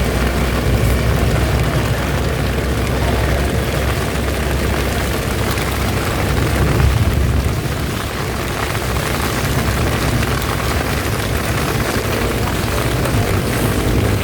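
Heavy rain under the steady low rumble of a vehicle travelling along a road.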